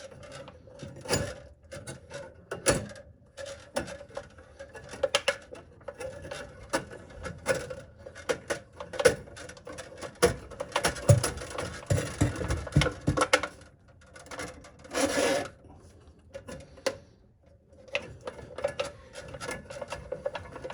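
Steel drain-snake cable being fed and twisted into a clogged drain pipe, with irregular clicks, scrapes and rattles of the coiled cable against the auger drum and the pipe, and a brief louder rasp about three-quarters through. The cable is advancing about a foot at a time into the line.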